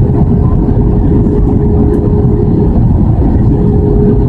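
Airbus A320 cabin noise: a loud, even rush of engine and airflow noise with a steady hum running through it.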